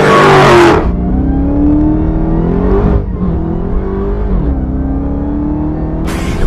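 Jeep Grand Cherokee Trackhawk's supercharged 6.2-litre V8 accelerating hard, with a loud burst in the first second. The engine note climbs and drops back at upshifts about three and four and a half seconds in.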